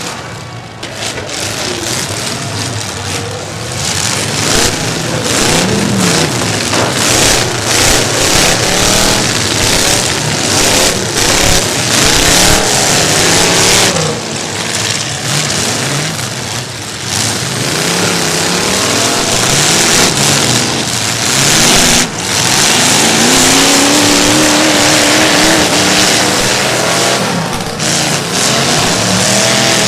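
Several demolition derby cars' engines revving hard and dropping back, overlapping and continuous, with sudden thuds of impacts between them now and then.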